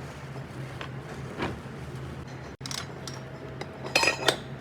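Light metallic clinks of metal pieces knocking together, a few scattered strikes with a tighter cluster near the end, over a steady low hum.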